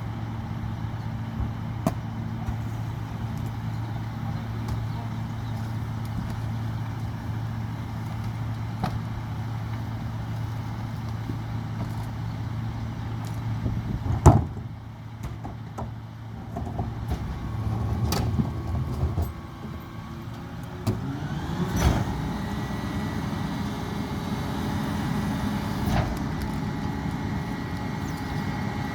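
Mack Granite rear-loader garbage truck's diesel engine idling steadily, a sharp bang about halfway through, then the engine rising in pitch as it revs up and holding a steady higher run with a whine, as the hydraulic packer runs.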